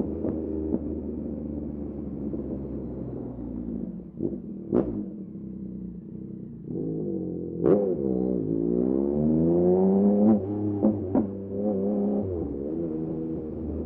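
Yamaha MT-09 SP's 890 cc inline-three engine through a Dominator aftermarket exhaust, running at steady revs, then dropping and climbing through the revs in repeated rising sweeps in the second half. Two sharp cracks stand out, about five and eight seconds in.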